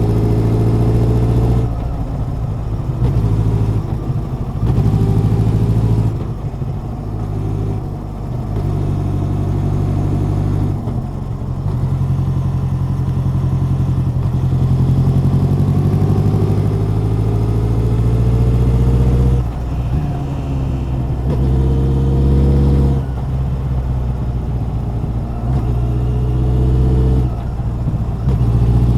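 Honda CB1100's air-cooled inline-four exhaust as the bike is ridden, pulling up through the revs again and again, with several throttle closes or gear changes where the pitch drops; one long, steady climb in pitch about midway.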